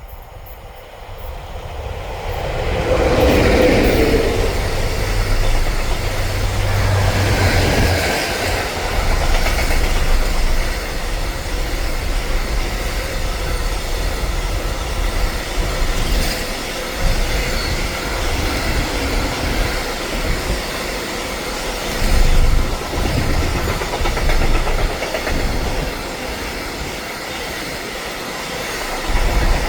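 A train approaching and running past at close range, its wheels clattering over the rail joints with a steady low rumble. It swells over the first few seconds and stays loud throughout.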